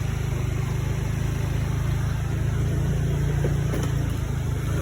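Motorbike engine running steadily while being ridden, heard from the rider's seat as an even low rumble.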